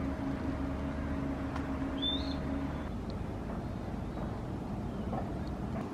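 A steady low rumble with a held low tone in it that stops about three seconds in, and a single short rising bird chirp about two seconds in.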